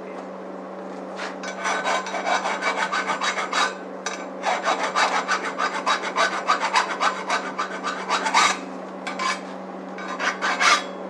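Rapid back-and-forth rasping strokes by hand, several a second, in three runs of a few seconds each, over a steady low hum.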